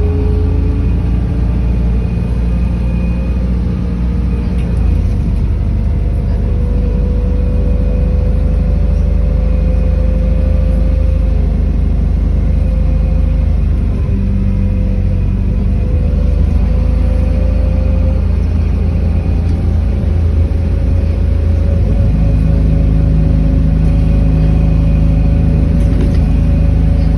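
City bus running on the road: a loud, steady low rumble from the engine and drivetrain, with a whine that slowly rises in pitch as it gathers speed.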